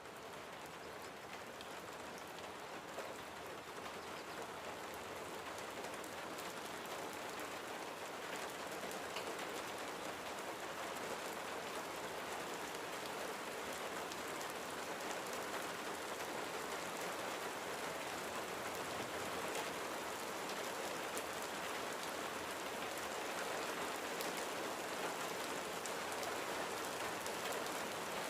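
Steady rain falling on a window, a dense even hiss with many small drop ticks, slowly growing a little louder.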